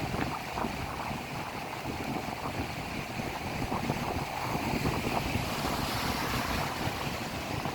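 Wind buffeting the microphone: an uneven low rumble over a steady rushing noise.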